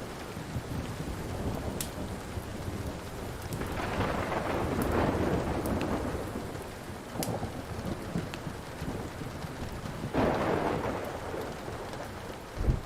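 Thunder rumbling over steady rain, swelling twice, with a short low thump near the end. A few sharp pops from a crackling wood fire come through the rain.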